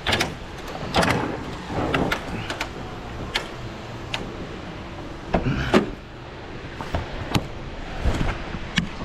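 Truck engine idling, heard inside the cab as a steady low hum, with a dozen or so irregular knocks and clicks scattered across it.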